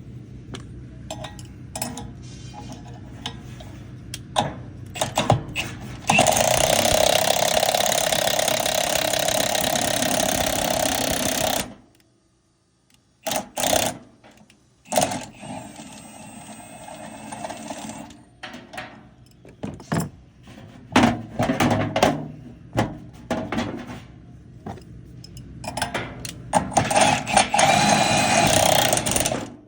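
Cordless Milwaukee impact driver drilling down into rusted metal of an AC fan motor mount, run in long bursts of several seconds with a fast mechanical rattle. Short metallic knocks and clicks come between the bursts.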